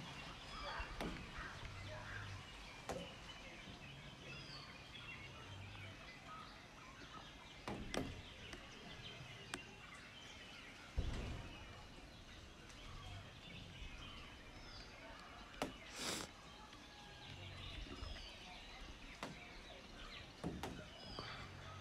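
Faint outdoor ambience with birds chirping and calling now and then in short, high notes. There are a few low bumps and a brief hiss about sixteen seconds in.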